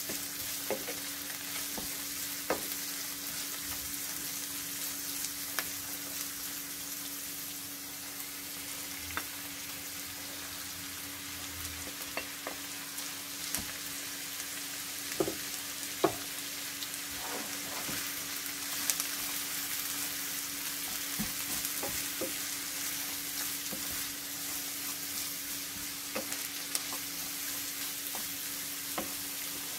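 Stir-fry vegetables (julienned carrot, green beans and onion, then shredded cabbage) sizzling steadily in a nonstick frying pan, stirred with a wooden spatula that scrapes and knocks against the pan now and then.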